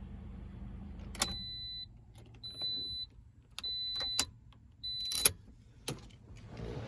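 2018 Toyota Corolla SE's 1.8 L four-cylinder engine idling with a low hum, then shut off with a click about a second in. A high warning chime then beeps four times, each about half a second long, mixed with several sharp clicks; the loudest click comes about five seconds in.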